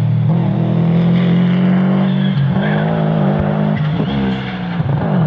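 Rally car engine running hard at high revs, with its pitch dipping and recovering at gear changes, mostly in the second half.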